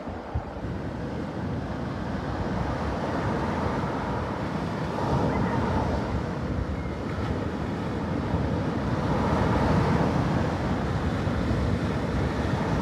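Sea waves washing onto the shore, swelling twice, with wind buffeting the microphone as a steady low rumble.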